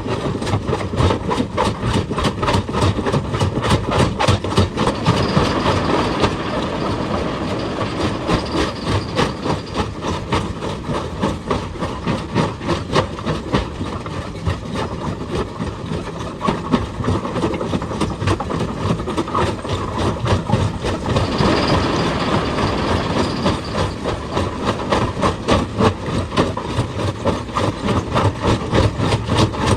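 Excavator-mounted hydraulic breaker hammering rock in a rapid, steady stream of blows, with the machine's engine running underneath.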